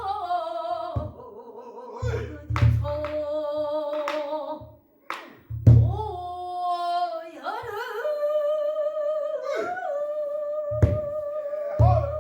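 Female pansori singer holding long, wavering sung notes, accompanied by a buk barrel drum: a few deep thumps on the drumhead and several sharp stick clicks on the drum's wooden shell.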